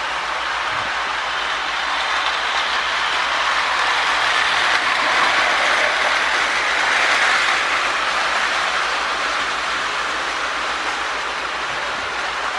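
A toy electric train locomotive, a Marx 898 fitted with a 1666 motor, running on its track with a steady whir of motor and gears. It grows louder near the middle as the locomotive comes closest, then fades a little.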